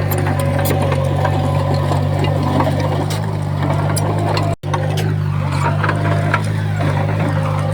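Komatsu D20P bulldozer's diesel engine running steadily, with scattered clanks and rattles of the machine at work. The sound drops out for an instant a little past halfway.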